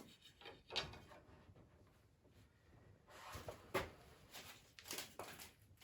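Faint handling of poplar swing slats: a few light wooden knocks and scrapes, irregularly spaced, as the slats are shifted to widen their spacing.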